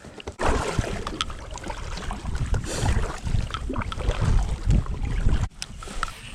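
Wind buffeting the microphone with a heavy low rumble and a few clicks, which cuts off suddenly near the end.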